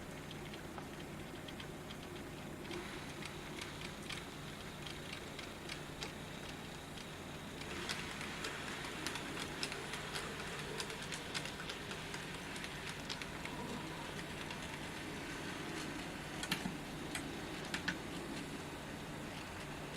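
N gauge model train running round the layout, its wheels clicking irregularly over the track above a low steady hum, the clicking getting louder and busier about eight seconds in.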